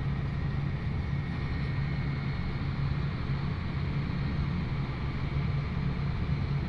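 John Deere 8400R tractor's diesel engine running at a steady speed: an even low drone with a faint high whine over it.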